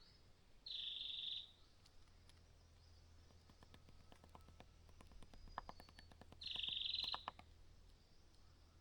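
Small birds giving two harsh, buzzy calls of under a second each, one about a second in and one near the end, with a run of faint quick clicks between them.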